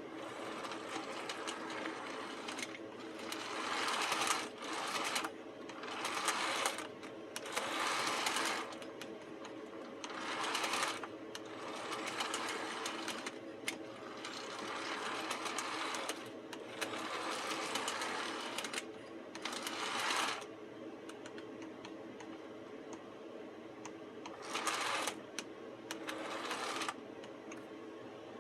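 Rivarossi HO scale diesel model locomotive's small electric motor humming as it runs along the track, with the higher running noise swelling and fading again and again as it goes back and forth, and light clicks here and there.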